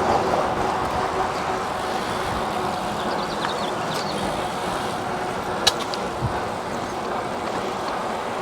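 Steady road traffic noise, with one sharp click a little before six seconds in.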